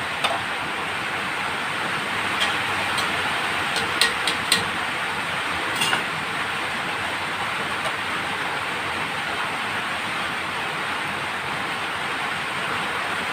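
A steady rushing hiss with several sharp metal clinks of a spoon against the cooking pan, three in quick succession about four seconds in.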